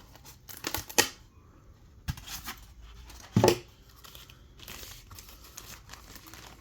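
Model car packaging being torn and opened by hand: crinkling and tearing, with two loud sharp snaps, one about a second in and one around the middle.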